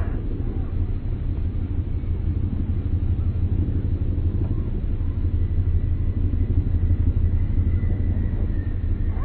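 A steady low rumble of background noise, with a faint thin bird whistle held for a second or so near the end.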